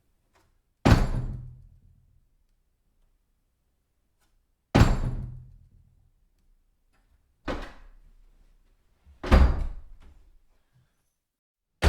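A door swung hard against its backstop, recorded close up: four separate bangs a few seconds apart, each dying away over about a second, the third one softer. Another bang starts right at the end.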